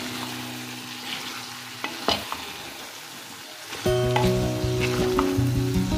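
Goat meat, tomatoes and potatoes sizzling in a metal pot while a wooden spoon stirs them, with a couple of sharp knocks of the spoon on the pot about two seconds in. Background music fades early on and comes back loudly about four seconds in.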